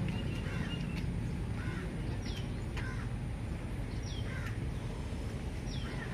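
Birds calling, with a short falling chirp repeated about every two seconds and other small chirps between, over a steady low background rumble.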